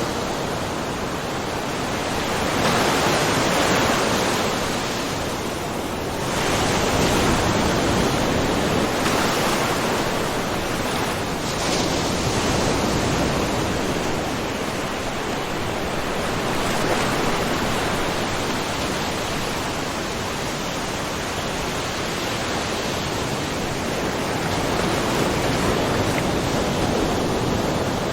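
Small ocean waves lightly splashing, a continuous wash of surf that swells gently every few seconds.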